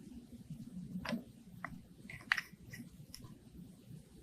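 A few faint, sharp clicks and taps from small objects being handled, over a low steady room hum.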